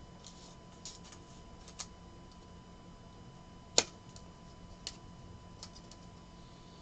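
Trading cards being handled on a table: a few soft clicks and taps, with one sharper click a little under four seconds in, over a faint steady hum.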